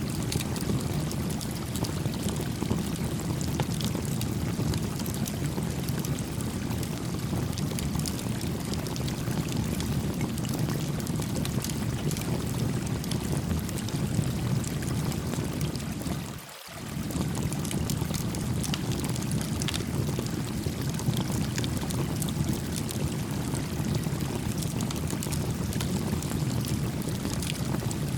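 Small stream babbling steadily with a small campfire crackling over it. The sound dips out briefly a little past halfway, then carries on.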